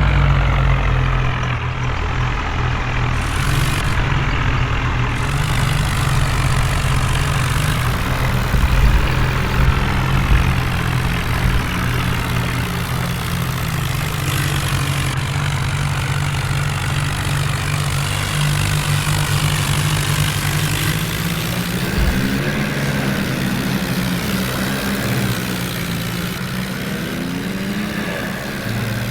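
Heavy diesel engine of a tractor or truck running steadily at low revs, a deep continuous hum whose pitch shifts a little about two thirds of the way through.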